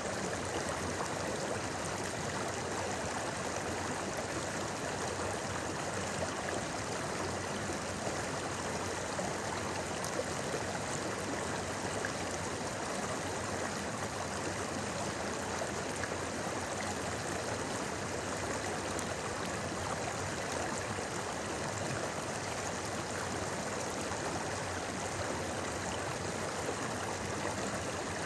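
Shallow river babbling over rocks: a steady, even rush of flowing water.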